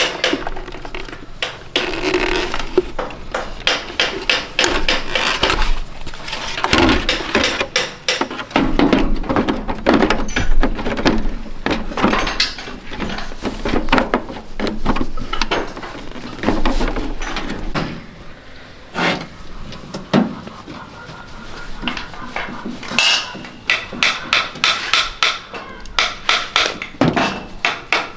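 Rapid, regular hammer taps, about three to four a second, at the start and again near the end, with irregular knocking and clattering of tools and parts in between.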